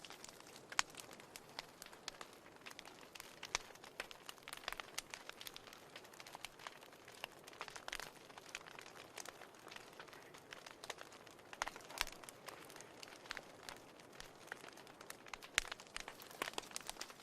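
Wood fire burning in a fireplace: irregular crackles and sharp pops from the burning logs over a faint steady hiss.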